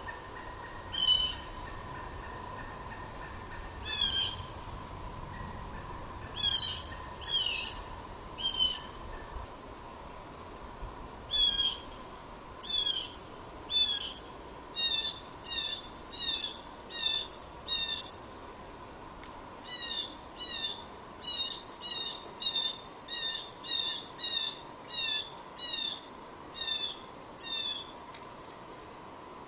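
A bird calling in short repeated notes, a few spaced out at first, then about one a second through the second half.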